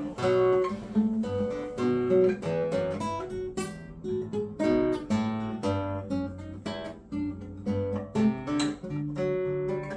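Acoustic guitar played live, a run of picked single notes and chords that ring on between strokes.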